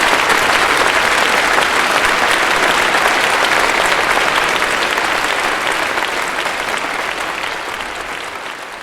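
Audience applauding, a dense even clapping that dies away over the last few seconds.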